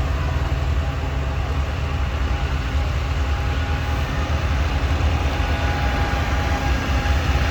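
Farm tractor engines running with a steady low rumble.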